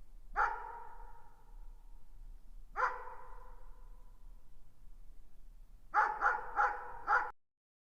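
A dog barking: a single bark, another about two and a half seconds later, then a quick run of four barks before the sound cuts off suddenly.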